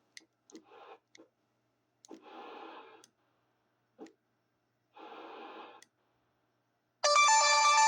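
Scattered clicks and two short breaths picked up by a radio microphone, then, about seven seconds in, a loud electronic tone of several steady pitches from the radio setup.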